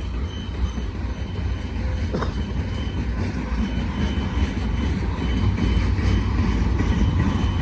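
Freight train of empty flatcars rolling past, a steady low rumble of wheels on rail, with a thin high tone repeating in short dashes two or three times a second.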